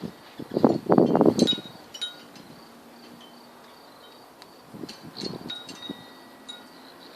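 Hummingbird wings buzzing close by, loudest about a second in and again more faintly around five seconds, over light wind chimes ringing high.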